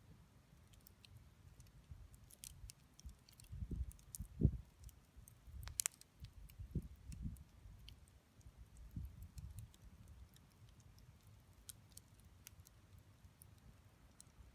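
Wood campfire crackling: scattered sharp pops and snaps, the loudest about six seconds in, over a low rumbling that swells briefly a few times.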